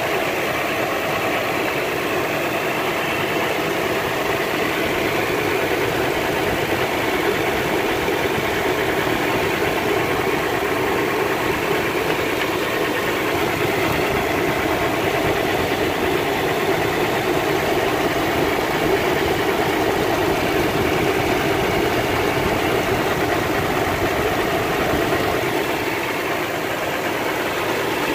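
2014 Toyota Fortuner's V6 engine idling steadily, heard close-up in the engine bay with its new drive belt fitted. A slight hum runs under it, which the owner puts down to a worn bearing in the belt tensioner pulley that needs changing.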